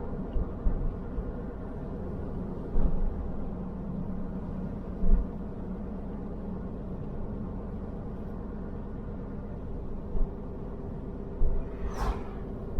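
A car driving along a road: steady low road and engine noise, broken by a few brief thumps and a short sharp sound near the end.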